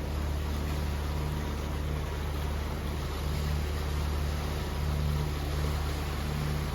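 Sailing catamaran's diesel engine running steadily under way, a low even drone that swells and eases slightly every second or so, over a hiss of wind and water.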